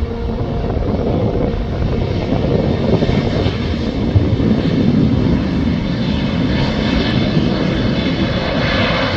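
Jet airliner engines running loud as the plane passes close by, a rushing rumble that builds over the first few seconds, with a high engine whine growing near the end.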